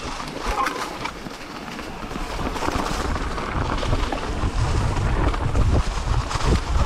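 Wind buffeting the microphone during a ride: a low, gusty rumble that grows louder over the second half.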